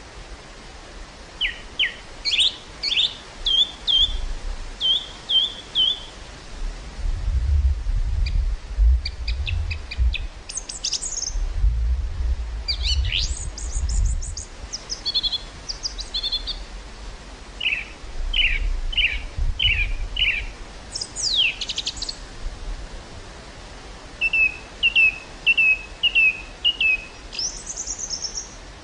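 Small birds singing, with repeated short chirps and quick trills. Wind gusts rumble low across the microphone three times around the middle.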